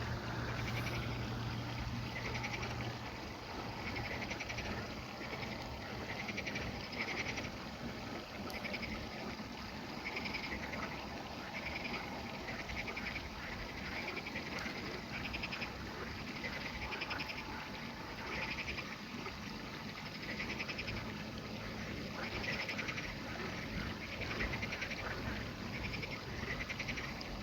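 A night chorus of frogs: short, finely pulsed croaking calls repeat every second or so, over a continuous background of insects.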